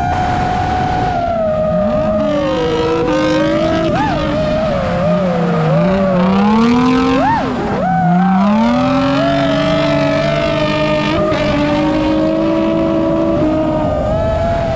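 Quadcopter drone motors whining, their pitch rising and falling with the throttle, with sharp upward swoops about four and seven seconds in.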